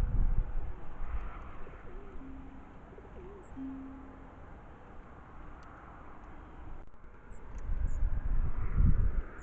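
A dove cooing: a few low, soft coos, some wavering and some held, in the first half. Low rumbling on the microphone at the start and again, louder, about eight seconds in.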